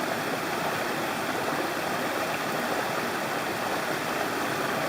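A mountain stream rushing over rocks, a steady water noise.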